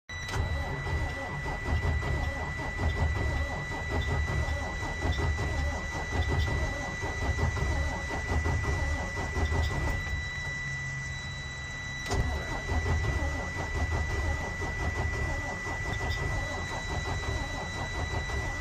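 Car engine cranking on the starter without catching, in two long attempts with a short pause about ten seconds in: the engine won't fire, which the owner suspects is from being out of gas.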